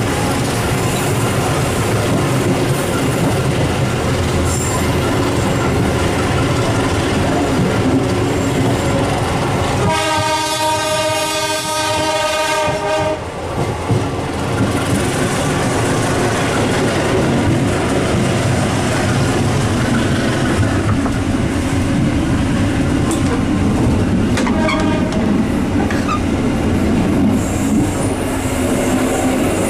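Steady running noise of a moving passenger train, heard from inside the car. About ten seconds in, a train horn sounds one held note for about three seconds, and later a second, shorter and fainter horn note sounds.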